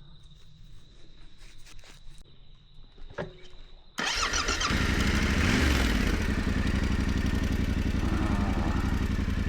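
Yamaha Ténéré 700's parallel-twin engine starting about four seconds in after a few faint clicks, catching at once, with a short rise and fall in revs before settling into a steady idle with an even, rapid beat.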